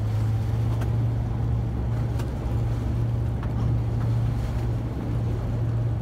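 A boat's engine running with a steady low hum, under the rushing noise of wind and sea.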